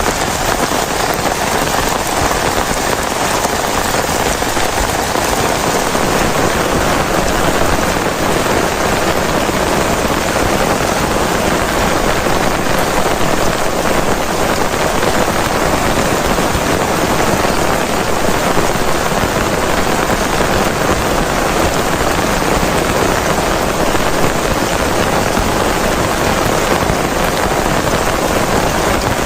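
Heavy rain falling in a steady, loud downpour, the drops pattering densely on a surface.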